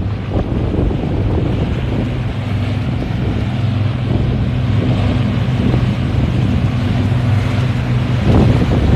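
Large powerboat's engines passing, a steady low drone that comes in about a second in and fades near the end, with wind buffeting the microphone.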